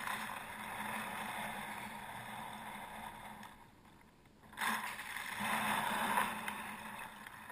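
Water splashing and rushing around a kayak, with wind noise; it fades briefly about halfway through, then picks up again suddenly.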